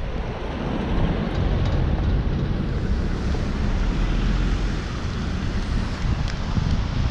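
Wind buffeting the microphone: a steady, heavy low rush of noise with a fainter hiss above it, going on throughout.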